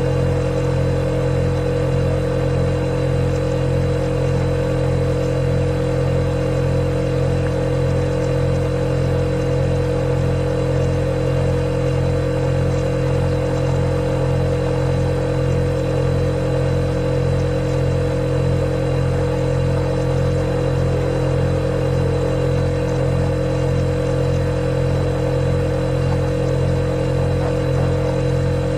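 Refrigerator compressor running with a steady, unchanging low hum and a faint hiss.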